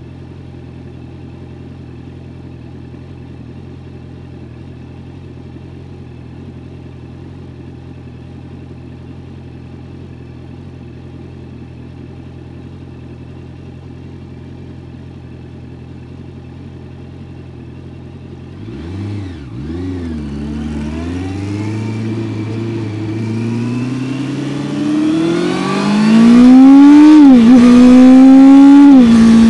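Honda CBR650F's 649 cc inline-four engine idling steadily, then pulling away about eighteen seconds in. The revs waver, then climb hard through two quick upshifts, each a sudden drop in pitch, getting much louder toward the end.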